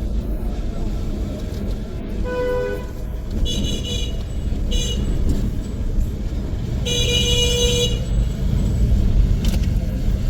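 City street traffic rumbling steadily, with car horns honking over it: a short honk about two seconds in, two brief higher honks soon after, and a longer one about seven seconds in.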